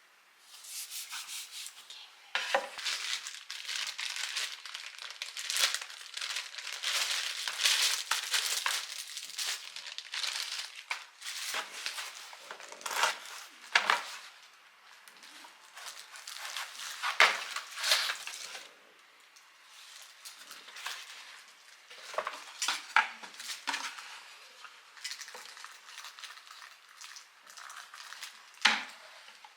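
Packaging rustling and crinkling as items are unpacked and handled, with frequent small clicks and knocks, going on unevenly with short pauses.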